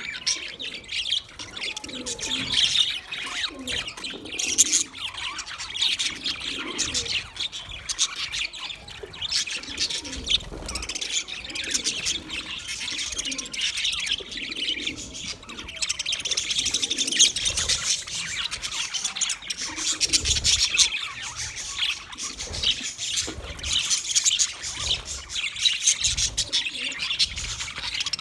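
A group of budgerigars (budgies) chirping and chattering continuously, many quick overlapping high chirps with the odd squawk, with occasional low thumps underneath.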